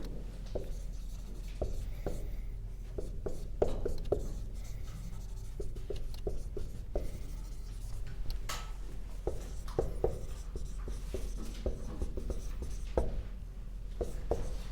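Handwriting: an irregular run of short strokes and taps from a pen or marker being written with, over a steady low hum.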